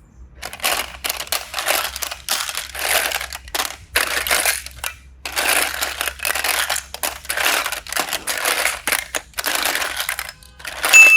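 Hands squishing and pressing soft slime-like material, a string of short crackly squelches about one or two a second. A bright ding sounds right at the end.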